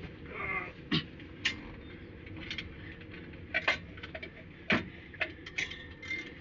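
Irregular sharp clicks and clinks of hand tools and metal engine parts being handled, about a dozen knocks, with a brief squeak about half a second in.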